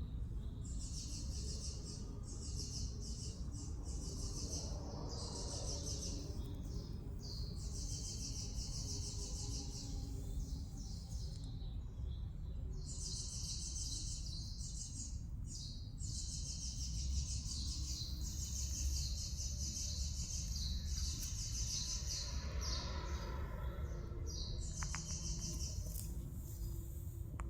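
Small birds chirping and twittering in a dense chorus, coming in stretches of a few seconds with short breaks, over a steady low rumble.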